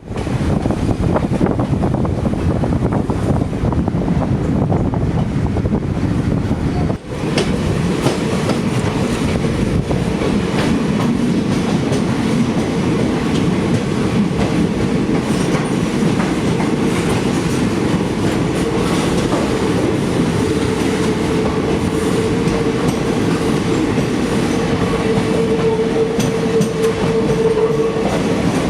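Passenger train running: a steady rumble and clatter of wheels on rail, with a steady whine that grows louder in the last third.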